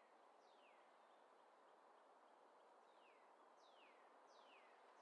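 Near silence: faint outdoor background hiss with a bird giving a short whistle that slides down in pitch, repeated several times, mostly in the second half.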